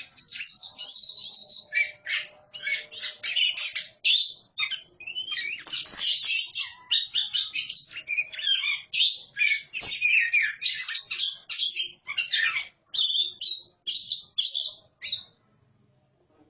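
A pair of Oriental magpie-robins (kacer) singing against each other. It is a fast, dense run of varied whistles and chattering notes that breaks off about a second before the end.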